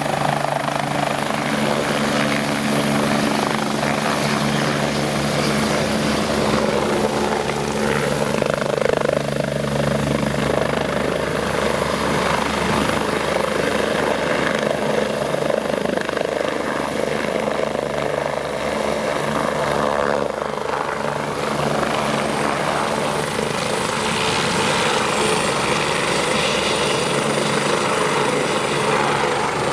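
A BK 117 C1 helicopter's twin turbine engines and rotors running steadily, with a thin high turbine whine that drops slightly in pitch about two-thirds of the way through.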